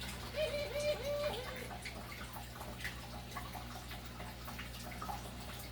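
Water dripping and trickling, with scattered small drip clicks over a steady low hum. Four short pitched calls come in quick succession in the first second and a half.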